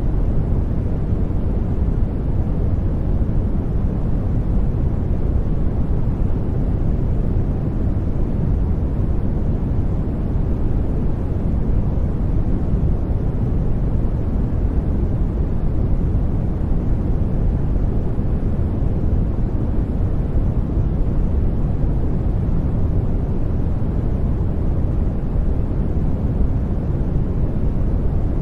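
Steady sleep noise, a soft hiss weighted toward the deep end, even and unchanging throughout.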